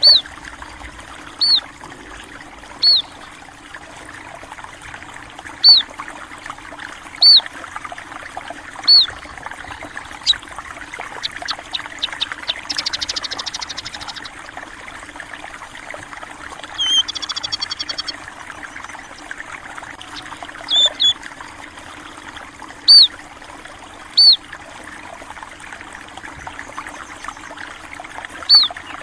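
Small finch-like birds (burung pipit) chirping: a sharp, high single call repeated every second or two, with a rapid buzzy trill near the middle and a shorter one a few seconds later. Under the birds runs a steady trickle of flowing water.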